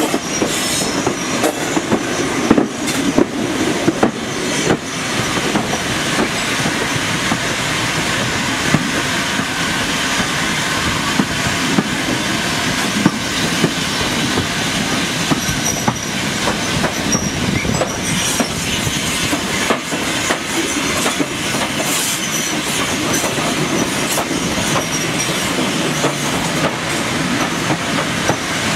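Heritage train running along the track, heard from on board: a steady rumble of wheels on rail, with sharp clicks over rail joints, most of them in the first few seconds.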